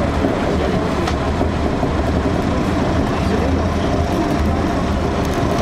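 Electric commuter train running along the track, heard inside the driver's cab: a steady low hum and rolling rail noise, with one sharp click about a second in.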